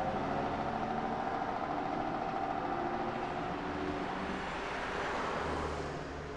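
Motor vehicle running close by: a steady engine note with a faint held whine, easing off slightly near the end.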